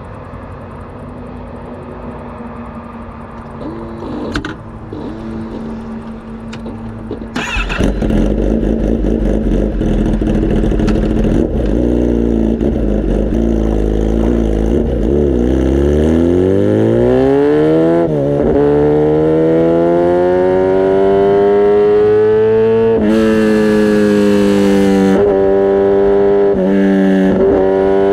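Kawasaki ZX-10R's inline-four engine idling with a few short revs, then pulling away about seven seconds in. It accelerates hard, the exhaust note climbing in pitch and dropping back briefly at each gear change.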